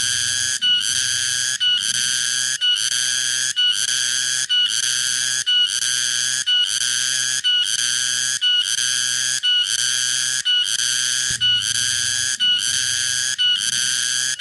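Cicada (tonggeret) singing a high-pitched ringing call that repeats in even pulses about once a second. Each pulse is cut by a brief break.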